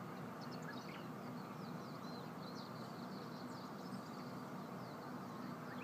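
Several birds chirping and singing, many short rising and falling notes, over a steady low background hum.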